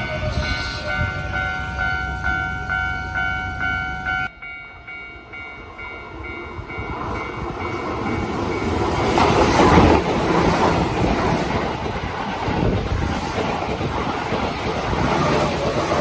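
Japanese level-crossing warning bell ringing in even, repeated strikes, about two a second, cut off abruptly about four seconds in. Then a Keihan electric train passes over the crossing, its noise building to a peak about ten seconds in and staying loud.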